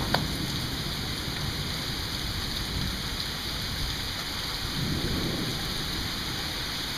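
Steady rain hissing with low thunder rumbling underneath, the rumble swelling slightly about five seconds in. A single sharp click just after the start.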